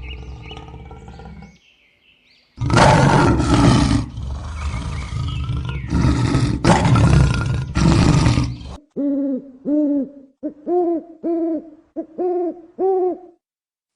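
A big cat roaring: a fading call, then several loud, rough roars over about six seconds. Then a series of about eight short, evenly spaced hooting calls, roughly two a second.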